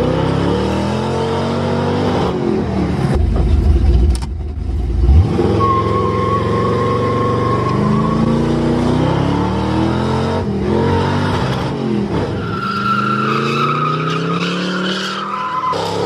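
Excavator's diesel engine revving up and down again and again as it works, with a steady high whine held for a couple of seconds, twice.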